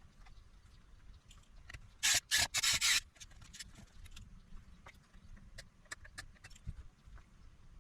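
Brief scraping on a circuit board in about three quick strokes about two seconds in, amid light clicks and taps of small hand tools.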